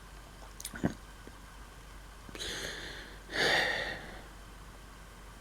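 A man breathing close to the microphone: two audible breaths, the second louder, with a faint click a little under a second in.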